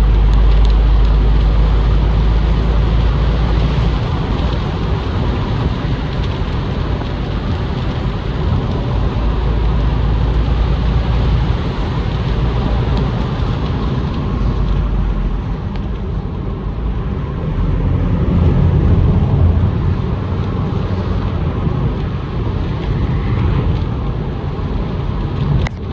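Ford Mustang EcoBoost convertible on the move with the top down: steady wind rush and heavy low rumble on the microphone, with road and engine noise, swelling a little about two-thirds of the way in.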